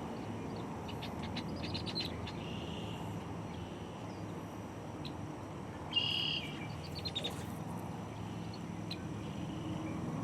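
Birds chirping here and there, with one louder, short call about six seconds in, over a steady low background hum.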